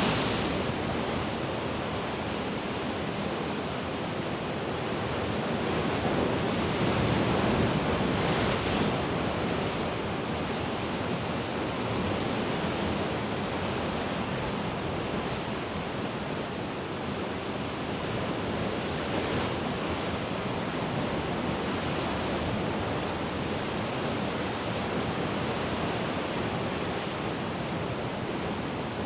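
Mediterranean sea waves washing against the shore in a continuous surf wash, rising and falling gently, with one fuller swell about seven seconds in. Light wind on the microphone.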